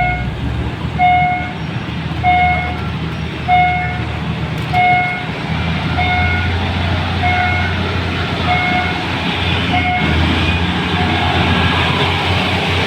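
Diesel locomotive of a suburban train pulling away hard under full power, its low engine rumble swelling about halfway through and again near the end. Over it an electronic warning beep repeats about every 1.2 s, nine times, then stops.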